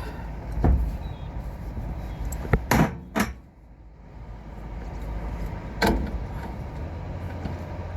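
Five scattered knocks and clicks over a steady low rumble, with a brief lull a few seconds in.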